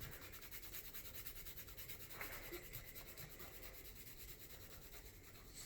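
Nail file rubbing quickly back and forth across fingernails, a faint, fast, even scratching.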